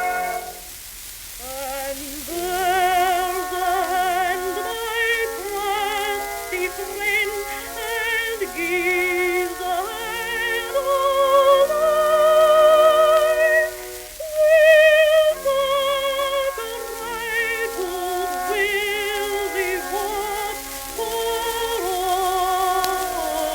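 Music from an early-1900s shellac phonograph record: several melody lines with heavy vibrato, the sound cut off above the upper mids, with a faint surface hiss over it.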